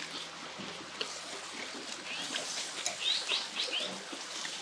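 A small songbird chirping in quick runs of short notes, once about two seconds in and again in a longer run around three seconds in, over a steady hiss.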